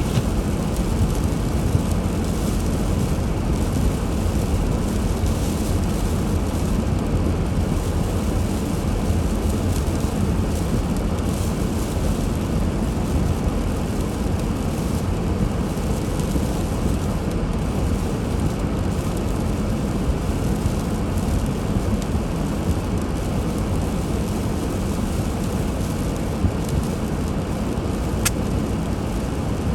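Steady low rumble of a car driving: engine and road noise, with a faint tick near the end.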